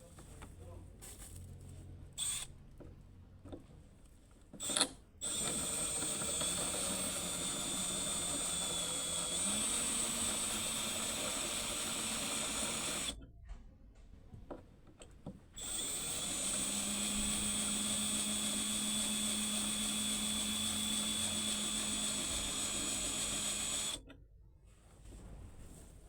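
Power drill running in two long runs of about eight seconds each, its pitch stepping up a little partway through each run, with a couple of short blips before the first.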